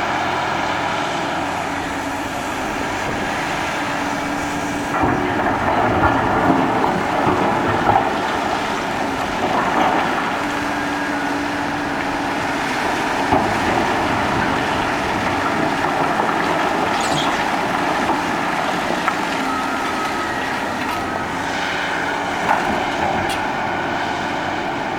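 Cat 6015B hydraulic mining shovel working: its engine running steadily under load, with a few sharp knocks and clanks along the way.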